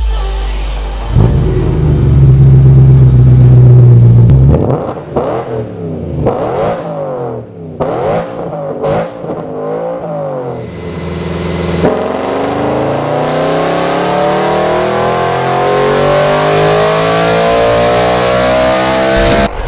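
BMW E90 M3's S65 4.0-litre V8 through an Agency Power cat-back exhaust. It idles, is held loud at steady revs for about three seconds, then gives a run of quick rev blips that rise and fall, and finally makes one long pull with the revs climbing steadily for about seven seconds.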